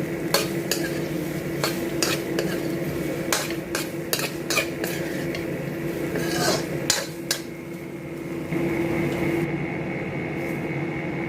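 Spatula knocking and scraping against a wok while chicken pieces are stirred through a thick sauce, with frequent clinks for the first seven seconds or so, then only a few. A steady hum runs underneath.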